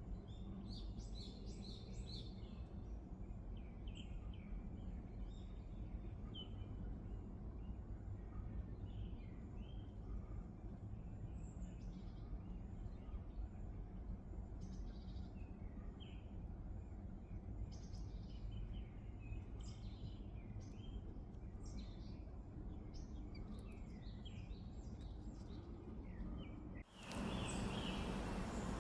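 Birds chirping: many short, high calls scattered throughout, over a steady low background rumble. About 27 s in the sound cuts abruptly and a louder, even hiss takes over.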